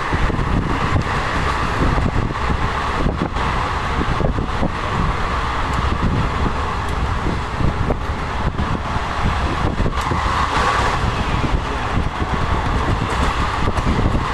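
Passenger train running, heard from on board: a steady rumble of the moving carriage.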